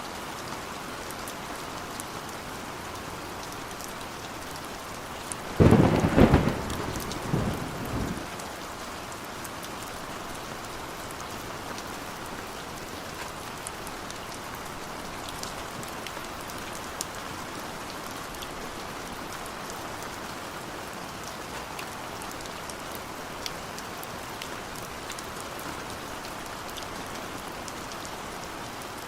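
Steady heavy rain with scattered drop ticks, and a sudden sharp thunderclap about six seconds in that rumbles away over the next two seconds.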